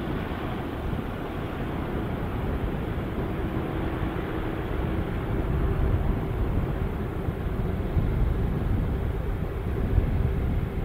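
Jet airliner engines, a steady heavy rumble with a faint whine, growing a little louder toward the end.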